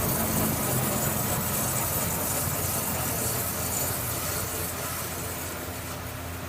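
24-inch Grob vertical band saw running, a steady machine hum with hiss that fades gradually as the saw is slowed while its two-speed gearbox is shifted from high to low range.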